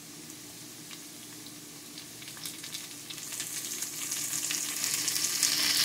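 Diced potatoes, onion, garlic and tomato frying in oil in a pan: a faint sizzle that grows steadily louder from about halfway through, with many small crackles.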